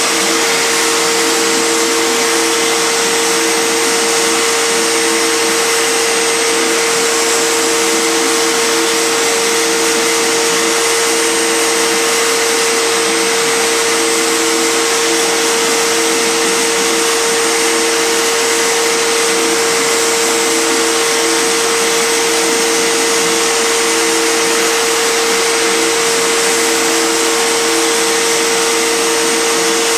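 CNC router running a 3D carving pass: the spindle motor gives a steady high whine over a loud rushing noise, and a lower tone keeps switching on and off every second or so as the axes move.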